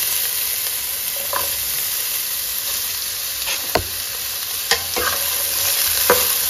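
Diced potatoes, onion and garlic sizzling steadily in hot oil in a metal kadai. In the second half a metal spatula stirs them, knocking against the pan several times with sharp clicks.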